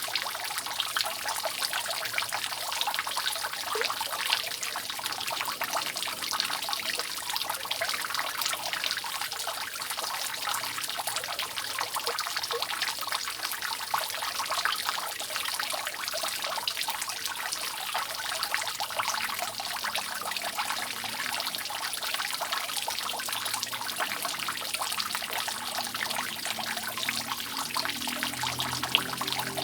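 Rainwater dripping and trickling steadily off a roof, countless drops falling in a dense, continuous patter.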